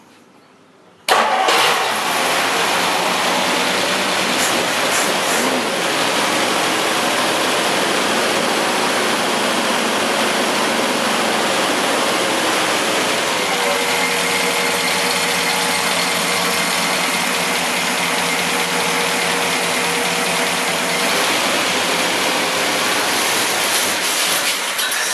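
Rebuilt Studebaker 289 V8 firing up on its first start with the choke closed. It catches about a second in and runs steadily, then cuts out near the end: it choked out.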